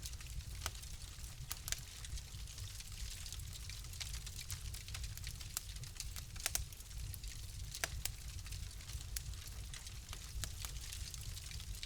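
Wood fire crackling in a fireplace: irregular sharp pops and snaps over a steady low rumble and soft hiss, with two louder pops in the second half.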